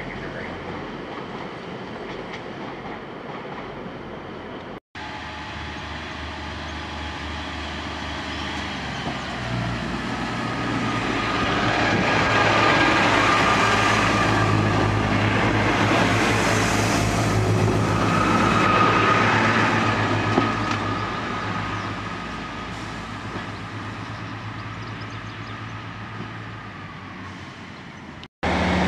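Diesel trains at a station platform. For the first few seconds a train runs past. After a short cut, a diesel multiple unit's engine hum and wheel noise swell to their loudest about halfway through, then fade as it pulls away.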